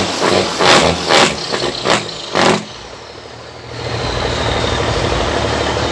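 A quick run of sharp, irregular hits for about two and a half seconds, then a short lull, then a truck engine idling with a steady low rumble from about four seconds in.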